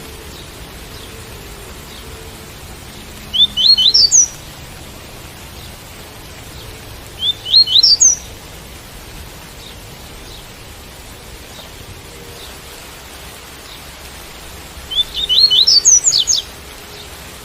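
Double-collared seedeater (coleiro) singing the tui-tui song: three short phrases of quick, rising high notes, over a steady hiss of rain.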